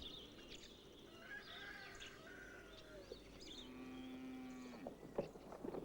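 Faint village ambience: short bird chirps, then a long, steady livestock call lasting about a second, starting about three and a half seconds in.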